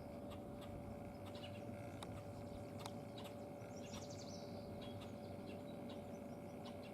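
Faint birds chirping with short scattered calls, a small cluster of calls about four seconds in, over a steady faint hum.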